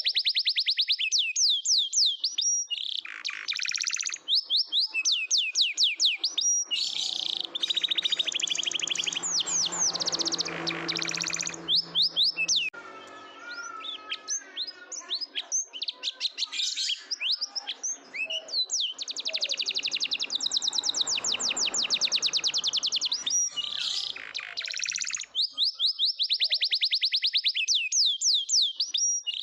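Domestic canary singing a long song of fast, rapidly repeated high trills and rolls, with short pauses between phrases and a stretch of slower, warbling notes about halfway through.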